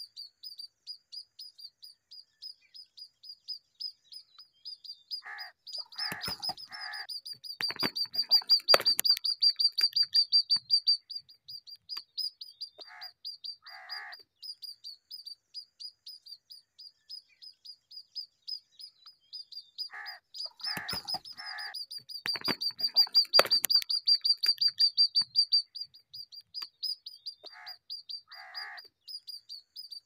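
Small birds chirping rapidly and steadily, several high-pitched chirps a second, louder for a few seconds twice. Short groups of lower-pitched calls come in every several seconds.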